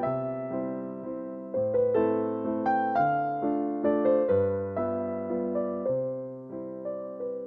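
Soft background piano music: a slow melody of struck notes, each left to fade, over low bass notes.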